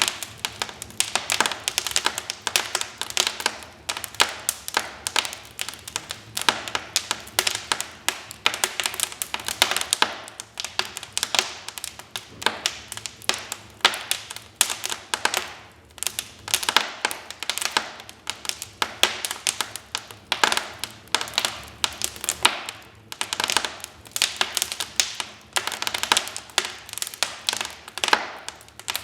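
Wood fire crackling in a fireplace: a dense, irregular run of sharp pops and snaps that comes in clusters with brief lulls.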